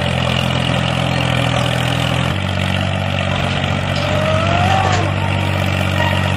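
Tractor engine drone running steadily, its pitch shifting slightly about two seconds in.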